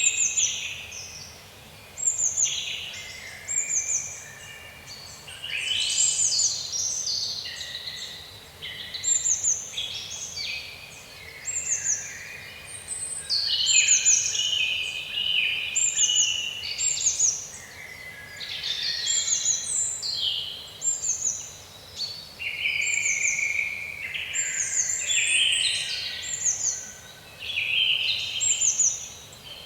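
Forest birds singing over a faint steady hiss, with short downward-sweeping high calls repeating about once or twice a second, several birds overlapping.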